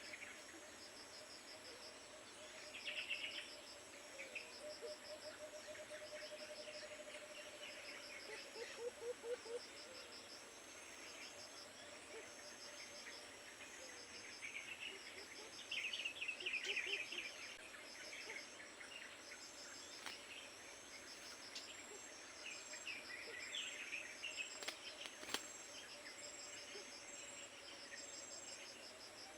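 A steady, pulsing chorus of insects trilling, with bursts of bird chirping breaking in several times, loudest about a quarter of the way in and again a little past halfway.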